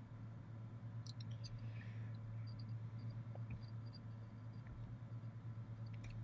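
Steady low electrical hum, with a few faint small clicks and ticks of handling at a soldering bench about a second in and scattered after.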